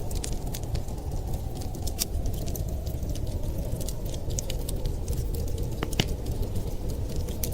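Wood fire crackling, with irregular sharp pops and snaps, one louder snap about six seconds in, over a steady low rumble.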